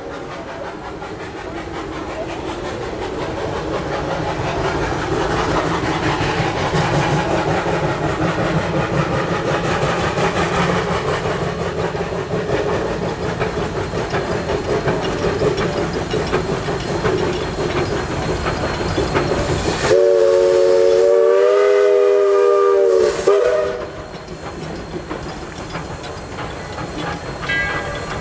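Narrow-gauge steam locomotive working along the track with a steady rail clatter and steam hiss that builds over the first few seconds. About twenty seconds in, its steam whistle blows one loud blast of about three and a half seconds, then the train noise drops back.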